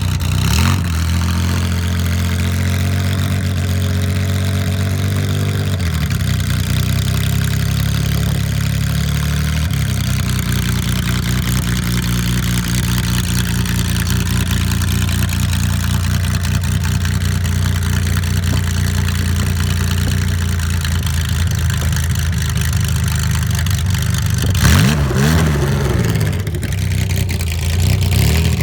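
1974 Porsche 911 RSR's air-cooled flat-six idling as it warms up after a cold start, with a few brief, gentle blips of the throttle, mostly near the end.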